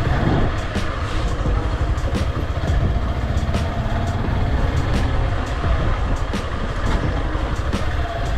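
Motorcycle riding along the road, engine running under heavy wind rumble on the microphone, with frequent short ticks.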